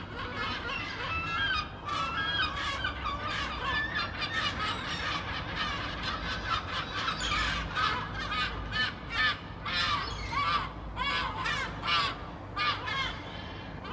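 A flock of seagulls calling, many short cries overlapping one another, busier in the second half.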